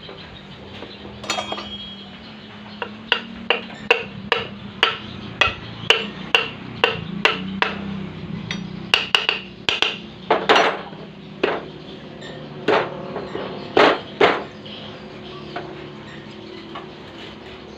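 A hammer tapping on metal engine parts, about two ringing strikes a second, then a handful of heavier blows before the tapping stops.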